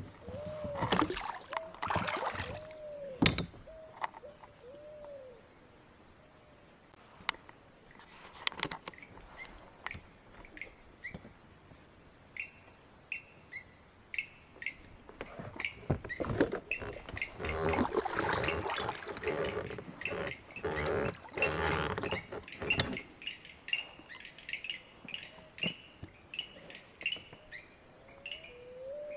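Birds calling from the riverbank: a low arched call repeated near the start and again near the end, and a run of short high chirps through the second half. Irregular bursts of water and boat-handling noise come over them, the longest from about halfway to three-quarters of the way through.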